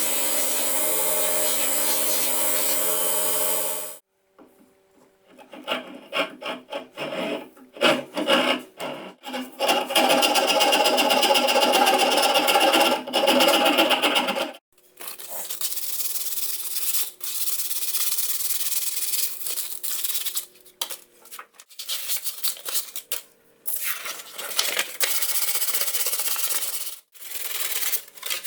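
Abrasive restoration work on a rusted sledgehammer, cut together in short clips: a steady motor-driven tool for the first four seconds, then bouts of rubbing and rasping strokes with stops between them.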